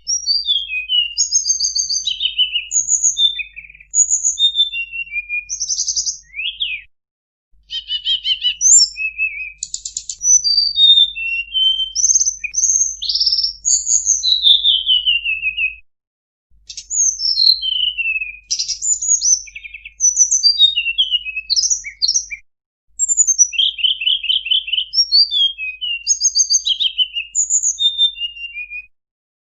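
A tledekan gunung songbird singing a full, varied song of rapid high chirps, trills and whistled slides, in several long bouts separated by short breaks. A faint low hum runs under the bouts.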